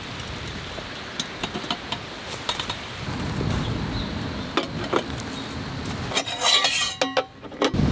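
Light clinks and taps of camp dishes and metal utensils being handled, with a louder rattle of clinks near the end, over a steady low rumble.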